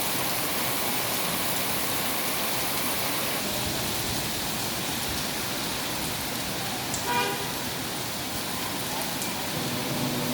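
Steady rain falling, an even hiss. About seven seconds in, a short horn toot sounds briefly over it.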